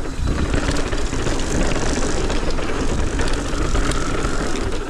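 Wind rushing over the rider-mounted camera and mountain bike tyres rumbling over a dirt trail at speed, with clicks and rattles from the bike over bumps. A faint steady squeal near the end fits the TRP disc brakes, which squeal loudly with these rotors whenever they are applied.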